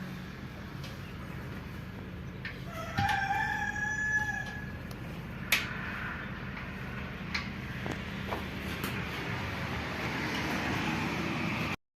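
A rooster crows once, a single call of about two seconds, over a steady low hum. A few sharp clicks or taps come and go.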